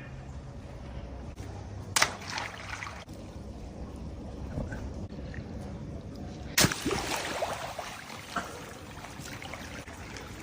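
Water trickling and pouring, with two sudden sharp sounds, one about two seconds in and a louder one past the middle, the second followed by a moment of splashing noise.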